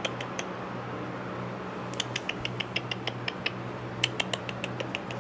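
A teacup chihuahua puppy moving about and fidgeting, giving small sharp clicks and ticks in quick clusters, over a steady low hum.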